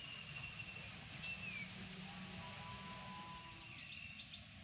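Birds calling in short whistled notes, one of them falling in pitch, over a steady outdoor hiss.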